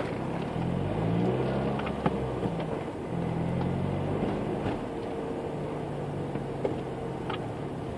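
Car engine running, heard from inside the cabin, its pitch shifting up and down over the first few seconds and then holding steady as the car drives slowly, with a few faint clicks.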